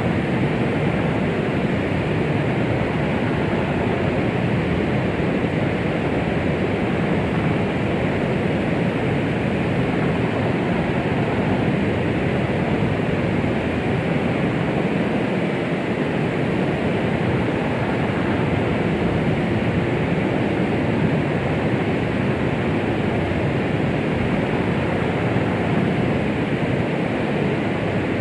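Steady rushing 'womb sound' white noise for soothing a baby: an even, unbroken hiss, heavier in the low and middle range than in the treble.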